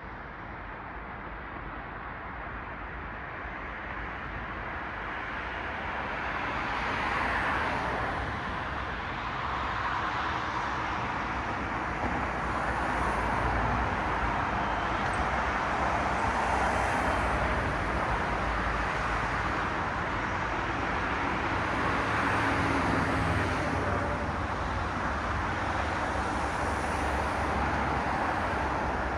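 Road traffic: cars passing one after another on a city street, the tyre and engine noise building over the first several seconds and then staying up with repeated swells as each car goes by.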